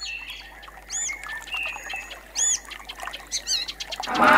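Birds calling: short, high arched chirps about a second apart, with lower whistled notes and a couple of quick wavering trills. Near the end, louder music with singing comes in.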